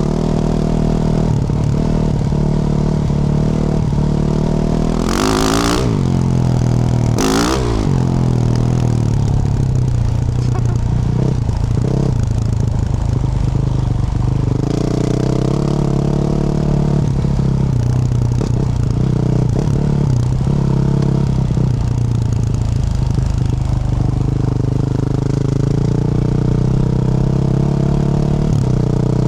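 Yamaha YZ450F's 450cc single-cylinder four-stroke engine through a Yoshimura RS-12 exhaust, running at low, steady revs. Two quick throttle blips come about five and seven seconds in.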